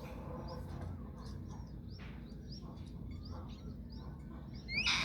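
Birds chirping with many short, high notes repeating over a steady low rumble, and a louder sweeping call near the end.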